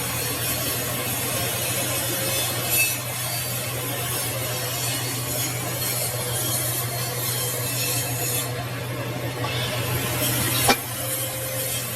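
Metal lathe running as a steel shaft is worked on it: a steady noise over a constant hum, with one sharp click near the end.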